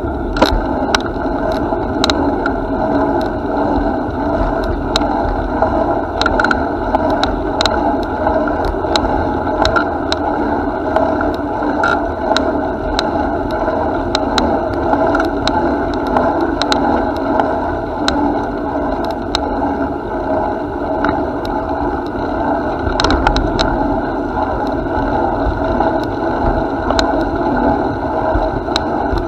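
Bicycle riding along a path: a steady rolling rumble with frequent small clicks and rattles.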